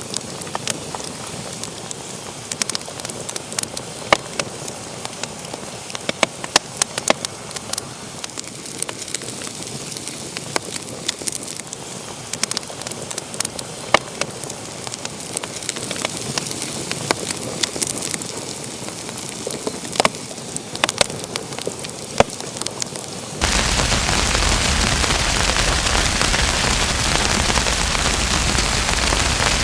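Wood fire in a fireplace crackling: frequent sharp pops and snaps over a soft hiss. About 23 seconds in, the sound cuts abruptly to a louder, steady rushing noise with hardly any pops.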